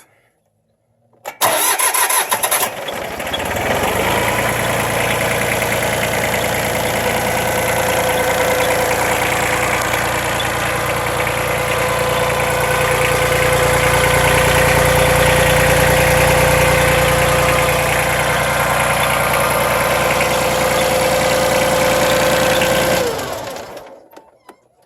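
Mitsubishi MT14D compact tractor's three-cylinder diesel engine cranked by its starter for about a second and a half, catching and then running steadily for about twenty seconds before being shut off near the end.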